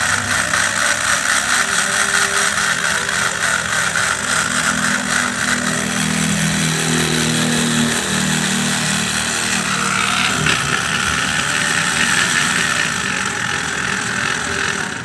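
Homemade V4 engine for a model aircraft running steadily at speed, a dense, fast-pulsing buzz. Its tone shifts about ten seconds in, and it cuts off suddenly at the end.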